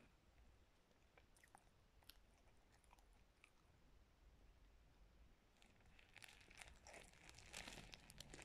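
Faint close-up chewing of crunchy cornstarch: a few scattered crunches and clicks, then a dense run of crunching from about six seconds in, loudest near the end.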